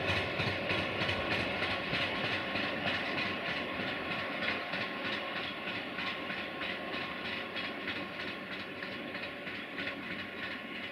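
A train rolling along the rails, its wheels clicking steadily over the rail joints, slowly fading as it moves away.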